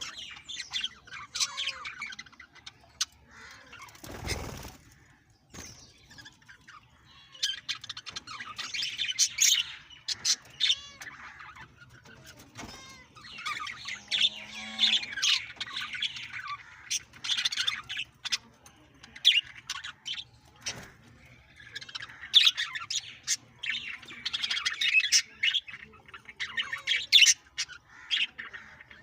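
A group of green and blue Australian parrots chattering, with chirps and squawks that come in bouts. There is a brief rustling burst about four seconds in.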